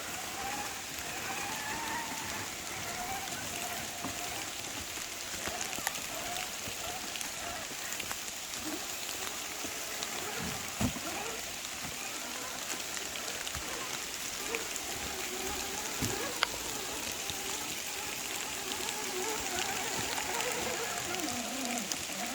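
Steady rain pattering, with the whine of RC rock crawlers' electric motors rising and falling as they are driven over the trail, and a few sharp knocks, likely the trucks hitting rocks, about halfway through and again a little later.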